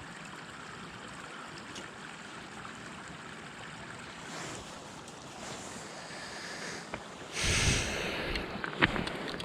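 Steady rush of flowing river water, with a louder rushing burst lasting about a second roughly three-quarters of the way in and a few sharp clicks near the end.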